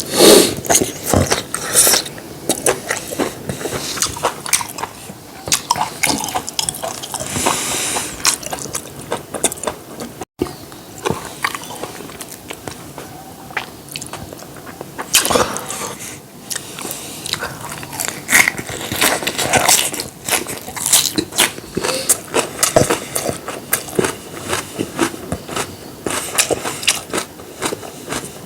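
Close-miked eating: chewing and crunchy bites, with many irregular small clicks and smacks.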